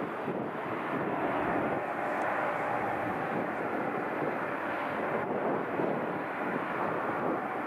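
Aircraft engine noise from an airliner at an airport: a steady rushing sound that holds at an even level.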